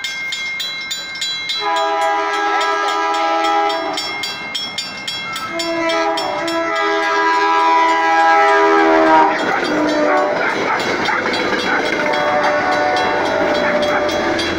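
A train's air horn sounds two long chord blasts as it nears the crossing. From about nine seconds in the train passes close by, its wheels rumbling and clattering on the rails. A rapid, even dinging runs throughout.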